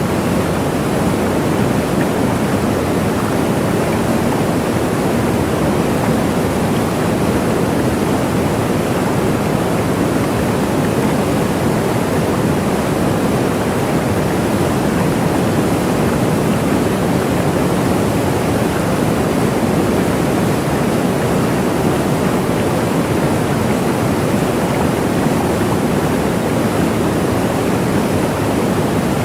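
Waterfall: a steady, unbroken rush of falling water, deep and full, with no change or separate events.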